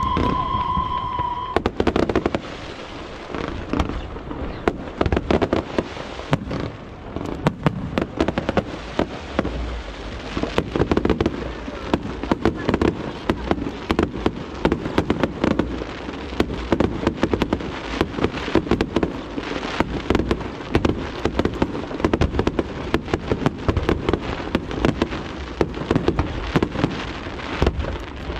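Aerial fireworks bursting in rapid, dense succession, a continuous mix of booms and sharp crackling. A whistle that sinks slightly in pitch sounds for the first second and a half, before the crackling takes over.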